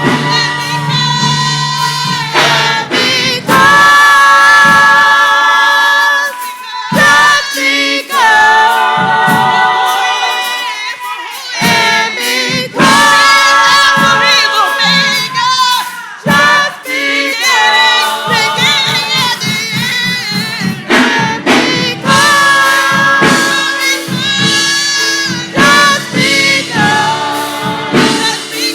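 Gospel choir singing with a band accompanying, with long held, wavering notes over a steady beat.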